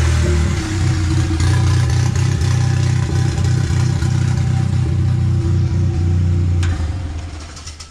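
Turbocharged GM engine of a home-built buggy running steadily just after starting on its own without starting fluid, a sign the newly flashed ECM has cured its no-start. The sound fades out near the end.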